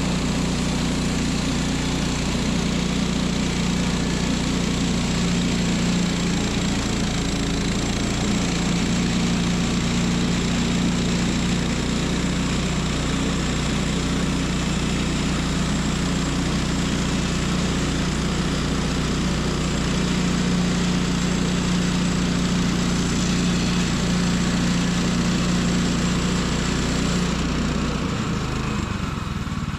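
Portable bandsaw sawmill running steadily, its gas engine humming under load as the blade rips a log into 2x4s. The sound shifts a couple of seconds before the end.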